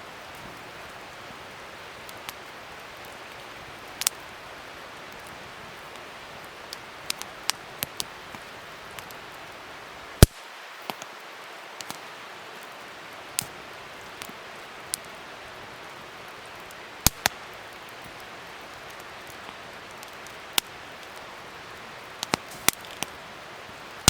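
Wood fire crackling: a steady hiss with irregular sharp pops and snaps, the loudest about ten seconds in and a pair around seventeen seconds.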